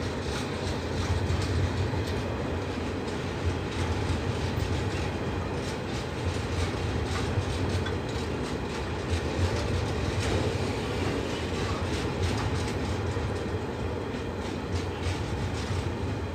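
Freight train's hopper wagons of a limestone train rolling past at steady speed: a continuous low rolling noise of steel wheels on rail, with frequent irregular clicks.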